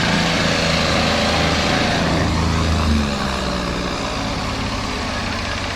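Farm tractor's diesel engine running hard through mud, then easing off about three seconds in and running on more quietly.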